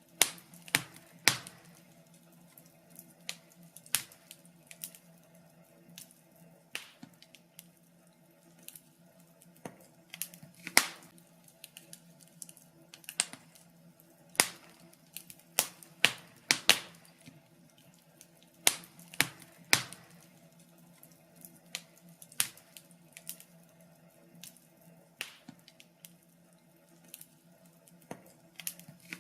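Wood fire crackling in a fireplace: irregular sharp pops and snaps, a few a second, some much louder than others, over a faint steady low hum.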